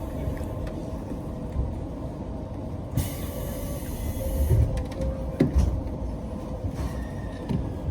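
Local train standing at a station: a steady rumble and hum, a burst of air hiss about three seconds in, then a few heavy thumps just after, typical of the doors shutting before departure.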